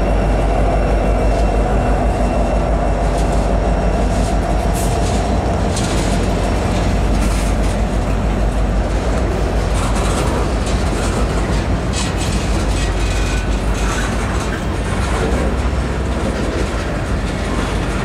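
Freight train of tank cars rolling past close by: a steady heavy rumble with the clack of wheels over the rail joints.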